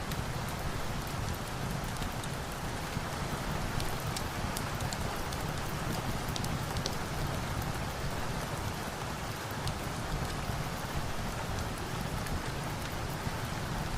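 Steady rain falling, an even rushing hiss with a low rumble beneath, dotted with scattered light ticks.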